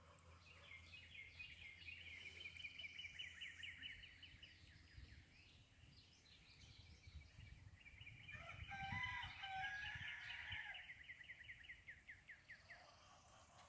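Faint outdoor birdsong: two spells of rapid trilling, with a louder pitched call about nine seconds in.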